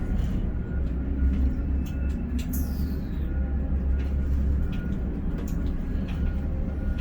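Ship-to-shore container crane machinery running, heard from the operator's cab: a steady low rumble that eases off about two-thirds of the way through, with a brief high falling squeal about two and a half seconds in and a few light clicks.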